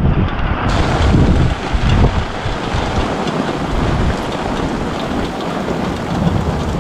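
Thunder rumbling right after a close lightning strike, over torrential rain pouring down. The rumble is loudest in the first couple of seconds, then settles under the steady rain.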